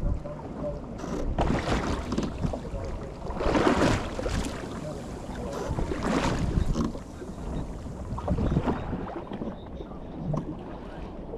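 Water sloshing and slapping against the hull of a small boat at sea, in surges every two seconds or so, over a steady low rumble of wind on the microphone.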